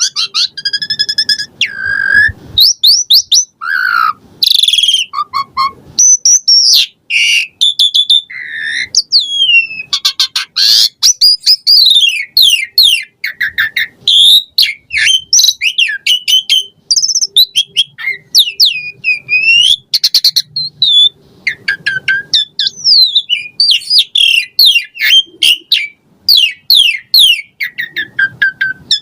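Asian pied starling (jalak suren) in full song: a fast, unbroken run of varied whistles, rising and falling glides and chirps, with short harsh rattles about a third of the way in and again past the middle.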